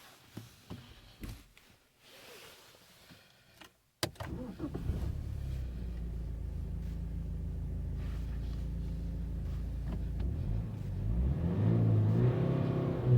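2007 BMW 320d's four-cylinder turbodiesel starting about four seconds in after a few faint clicks, settling into a steady diesel idle. It is then revved once near the end, the pitch rising and falling back.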